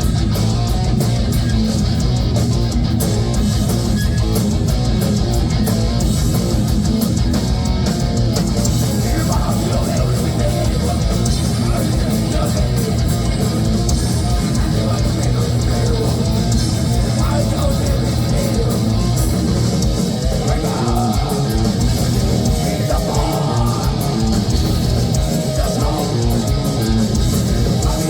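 Heavy metal band playing live: distorted electric guitars over bass and a drum kit, loud and unbroken.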